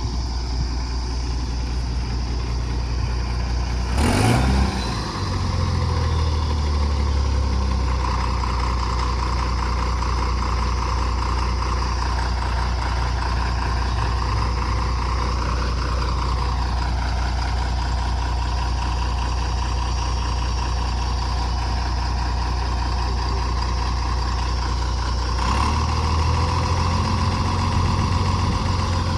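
Tata truck's diesel engine running steadily, with a brief loud burst about four seconds in after which the engine note shifts, and another short change in the note near the end.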